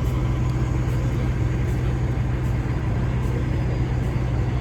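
Vehicle engine idling with a steady low drone.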